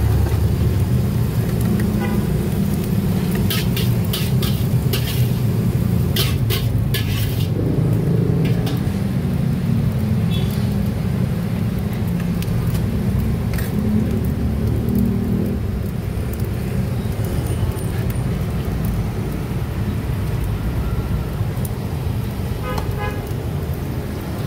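Fried rice being cooked in a wok over a steady low rumble, with a run of sharp metal clanks of the spatula against the wok between about three and seven seconds in, and a few more later.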